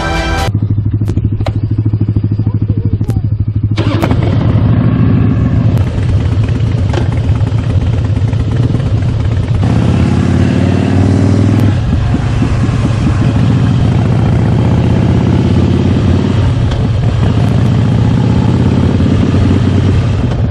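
Harley-Davidson V-twin motorcycle engine running on the road, a steady rumble, with wind rushing over the microphone from about four seconds in. The engine rises in pitch briefly about ten seconds in.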